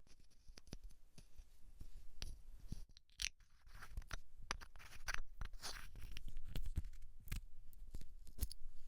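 Close-miked scratching and scraping on hair and scalp, an irregular run of sharp crackles and short rustling strokes.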